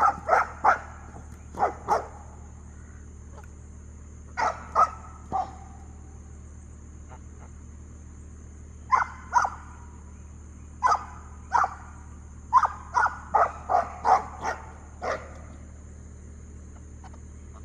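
Farm dog barking in short bursts of one to three barks with pauses between, then a quicker run of barks past the middle: alert barking at something unseen down toward the woods. A steady high hiss runs underneath.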